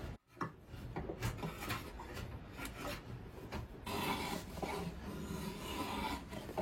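Hand tool scraping and shaving wood in irregular strokes, as in carving a wooden spoon. The strokes come denser and stronger from about four seconds in.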